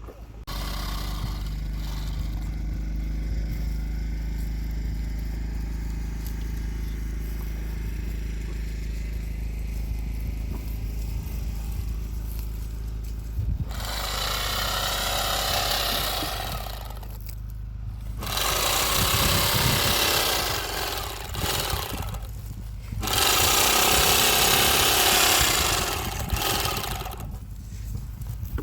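A small engine or motor running with a steady low hum. From about halfway, louder rushing noise comes in stretches with short breaks.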